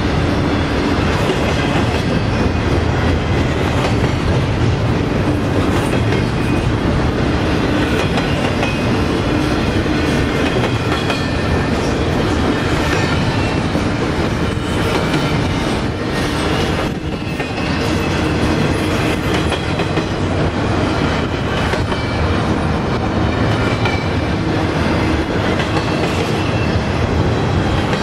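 Double-stack intermodal well cars rolling past, steel wheels clicking over the rail joints over a steady rumble.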